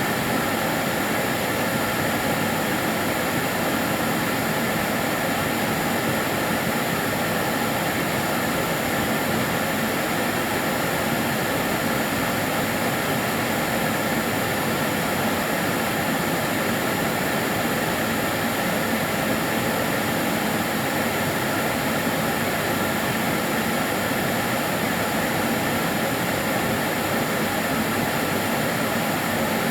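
Karcher DS 6 Premium water-filter vacuum cleaner running steadily: an even rushing whine of its motor and airflow that does not change.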